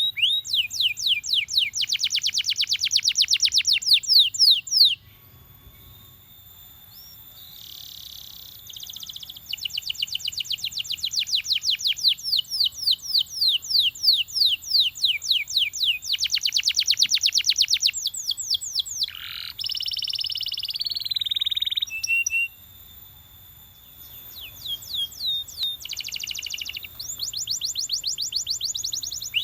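Belgian canary singing: long fast trills of quickly repeated notes, some in rapid rolls, with a brief pause about five seconds in and another past the twenty-second mark, and a harsher buzzy note shortly before the second pause.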